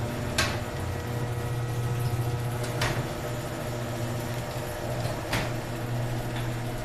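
Sears Craftsman garage door opener motor running steadily as it drives a sectional overhead door along its rail, with a sharp click about every two and a half seconds.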